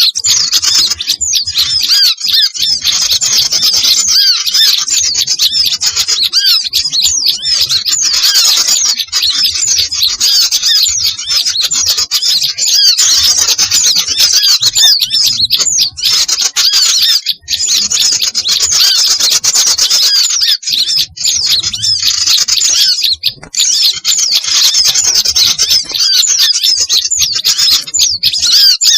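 Dense, loud chatter of many small songbirds calling at once, overlapping high chirps and squawks with hardly a pause. It is an agitated mixed-species bird-lure recording of the kind played to draw small birds in for trapping.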